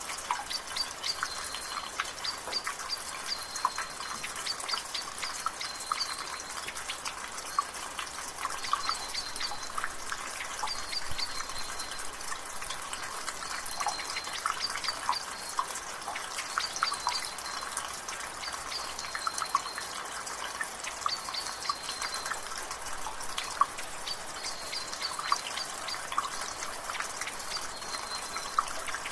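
Rainwater dripping and splashing from a gutter over a steady drizzle hiss, with many quick, irregular drips. A bird calls in the background with short high chirps every second or two.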